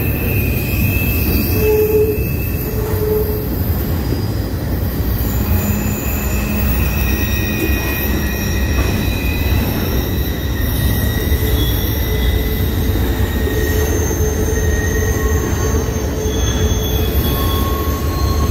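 Norfolk Southern intermodal freight train passing close by: a steady loud rumble of wagons and wheels on the rails, with thin high-pitched wheel squeals that come and go at several pitches.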